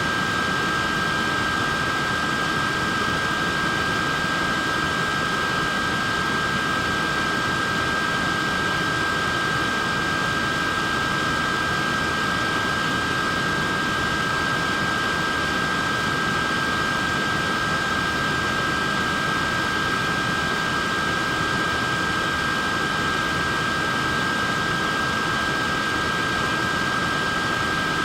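Portable neck fan running steadily: a constant whir of air with a steady high motor whine.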